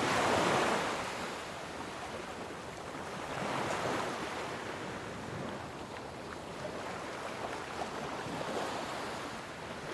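Ocean waves washing onto a sandy beach, swelling about half a second in and again around four seconds in.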